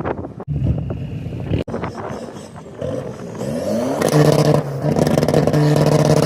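Car engine revving: about three seconds in, its note climbs in pitch, then holds loud and steady.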